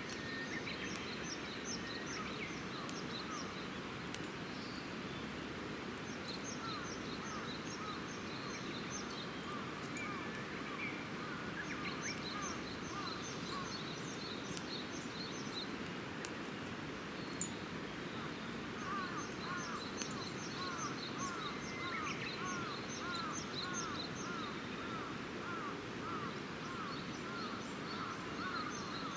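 Campfire crackling with a few sharp pops over steady outdoor noise, while birds call throughout: bursts of quick high notes every few seconds, and from about two-thirds in, a run of lower repeated notes.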